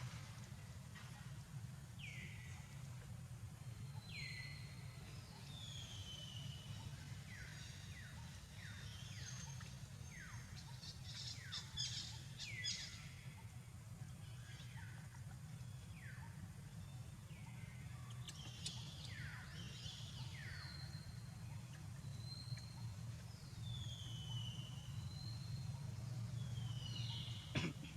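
Birds calling: short whistles that fall in pitch, repeated every couple of seconds, with a quick run of chirps and clicks about halfway through, over a steady low hum.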